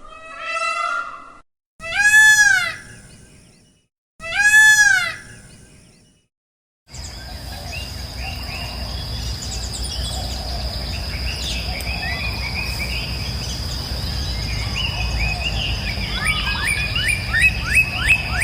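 Birds calling, starting with two loud calls that rise and fall in pitch, each separated by a short silence. About seven seconds in the sound cuts to a steady rush of water with a constant high tone and many small bird chirps, which grow busier near the end.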